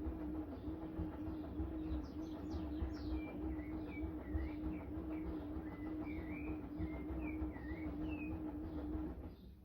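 Philco PLR10B washing machine running at speed, a steady motor whine with a slight regular wobble over a low rumble, which cuts off about nine seconds in. A bird sings with short sliding chirps over it.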